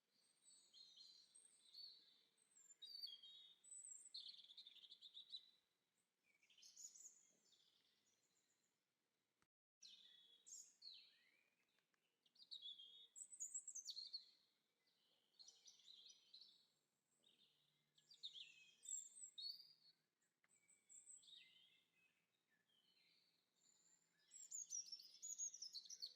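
Small songbirds chirping and twittering faintly in short, repeated phrases, one after another with brief pauses between them.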